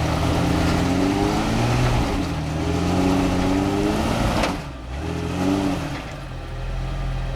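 Jeep Rubicon's engine revving up and down under load on a rock climb, rising and falling about three times, then running steadily near the end, over a steady rushing noise.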